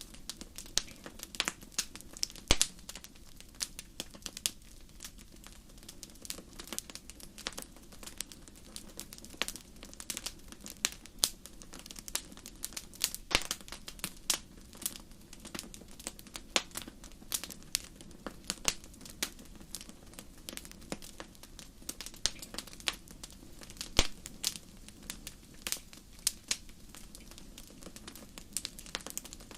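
Wood fire crackling: irregular sharp pops and snaps, a few louder ones, over a soft steady low rush of burning.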